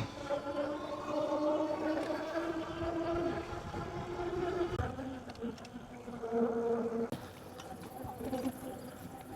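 E-bike's electric motor whining with a buzz while riding, its pitch shifting a few times, over a low rumble of wind and road noise.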